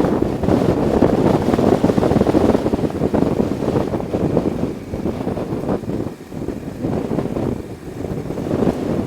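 Wind buffeting the microphone, a loud rushing rumble that swells and eases in gusts.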